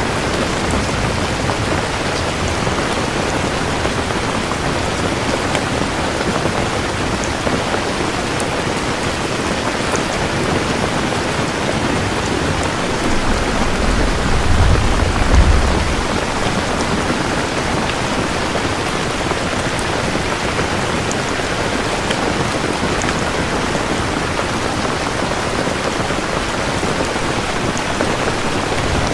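Steady heavy rain, with a low rumble of thunder about halfway through.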